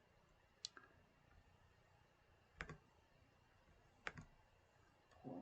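Faint, isolated clicks at a computer, a few seconds apart, two of them in quick pairs, over near silence.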